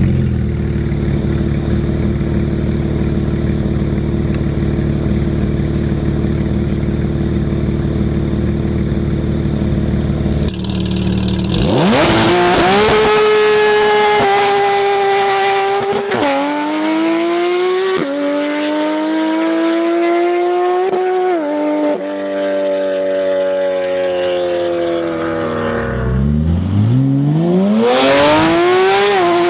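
Porsche 991 911 GT3 RS flat-six with Inconel straight pipes, held at steady revs on launch control for about ten seconds. It then launches, with revs climbing steeply and several flat-out upshifts as it pulls away and fades. Near the end the revs rise steeply again.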